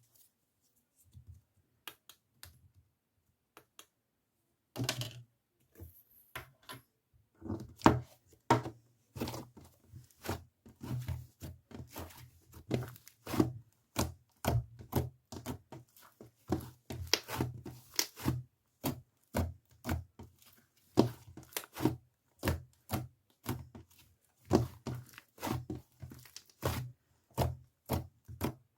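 Irregular series of short taps and knocks, about two a second, with some rustling. They start after a few quiet seconds.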